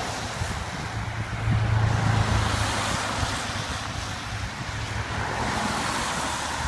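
A motor vehicle passing on a wet, slushy road, its tyres hissing. The rumble swells about one and a half seconds in and then slowly fades.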